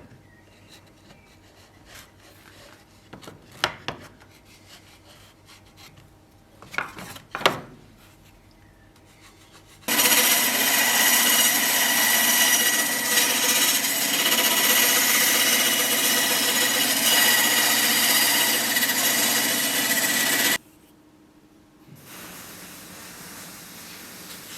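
A power tool runs steadily for about ten seconds, starting and stopping abruptly. Before it come a few scattered knocks and clicks of tools being handled.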